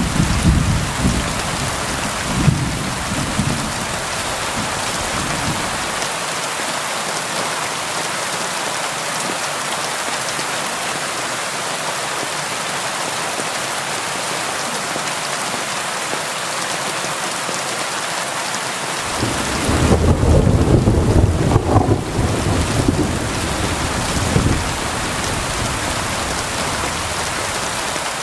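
Steady rain falling against a window, with low rolling thunder rumbling through the first few seconds and again for several seconds about two-thirds of the way through, the loudest part.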